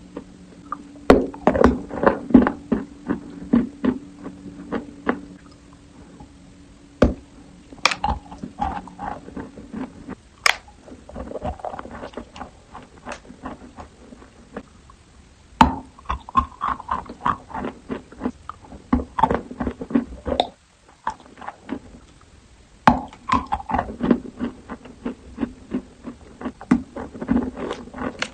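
Close-miked biting and chewing of chalk: sharp, dry crunches in irregular clusters with short pauses between bites, the longest about 20 seconds in. A faint steady low hum runs under the first ten seconds.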